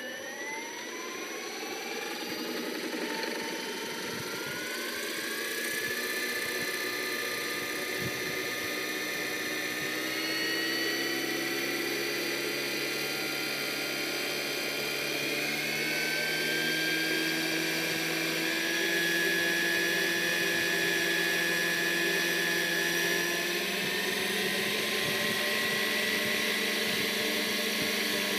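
Radio-controlled model helicopter's motor and rotor spooling up: a whine that rises in pitch over the first few seconds, steps higher twice more, and then runs steadily.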